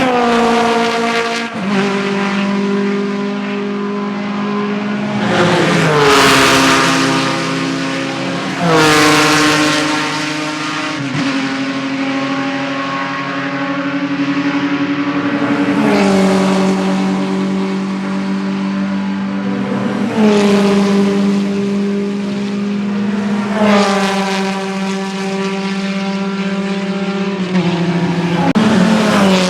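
Vintage racing cars, formula cars and sports prototypes, going by one after another at speed. Their engine notes climb and then drop sharply in pitch several times, with some cars louder than others.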